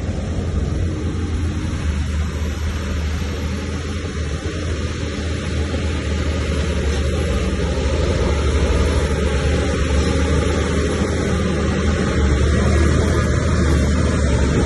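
Heavy diesel engine of an earthmoving machine running steadily, a deep rumble with noise above it, growing a little louder in the second half.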